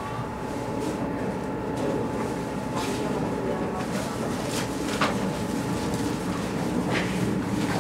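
Interior running noise of a commuter train moving slowly along a station platform: a steady low rumble with a constant hum. Three sharp clicks come roughly two seconds apart.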